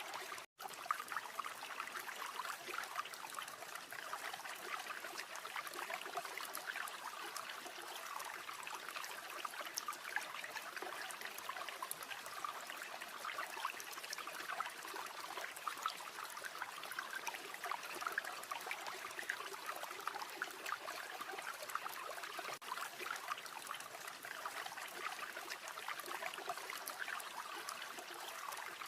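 River water flowing and babbling steadily, with a split-second dropout about half a second in.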